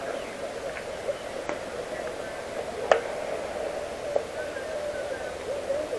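Distant voices of baseball players calling out across the field, with one sharp crack about three seconds in and fainter clicks a second or so either side.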